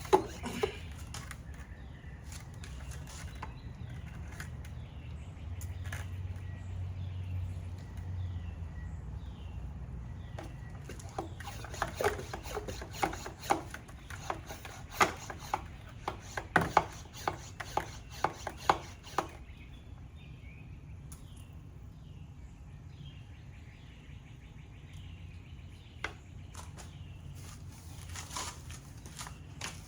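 A bird chirps repeatedly in short falling notes over a steady low background hum. In the middle comes a run of sharp clicks and knocks, a dozen or so over several seconds.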